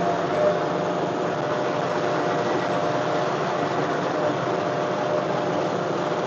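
John Deere 1025R compact tractor's three-cylinder diesel engine running steadily while it works snow, with a steady drone and a faint whine.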